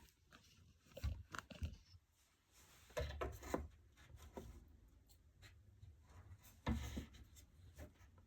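Hand-work noises as glue is applied to a wooden molding strip: short clusters of light knocks, scrapes and dull bumps about a second in, around three seconds in and again near seven seconds, with little in between.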